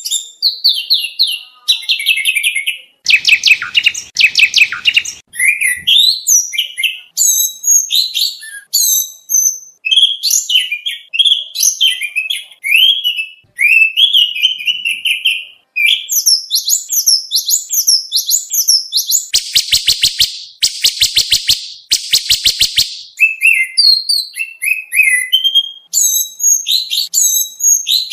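Oriental magpie-robin singing a loud, continuous, varied song of quick whistled phrases packed with mimicked material, broken twice by fast rattling trills.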